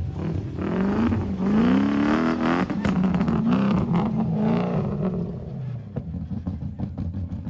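Four-wheel-drive off-road vehicle's engine revving hard on a sand challenge course, its pitch climbing several times in the first few seconds, then dropping back, with scattered knocks near the end.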